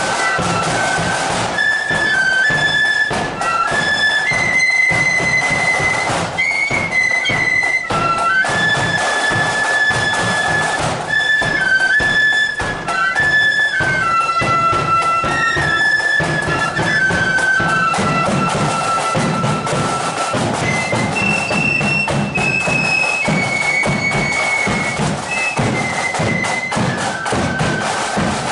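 Flute band playing a tune: flutes in unison carry a high stepping melody over a steady pounding of drums.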